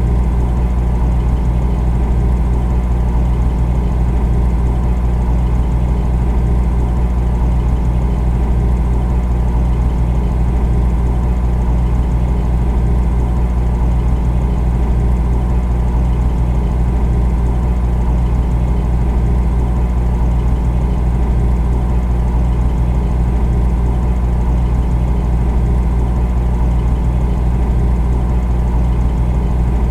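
Refrigerator compressor running: a loud, steady low hum with no change.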